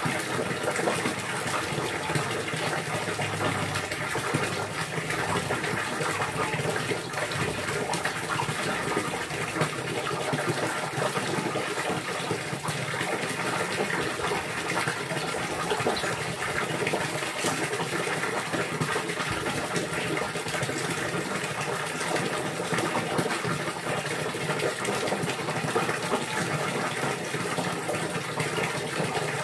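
Steady rushing, gushing water running without a break.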